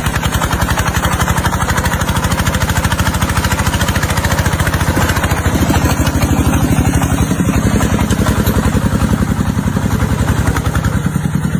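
Tractor engine running with a rapid, even chugging; its note shifts and gets fuller about five and a half seconds in.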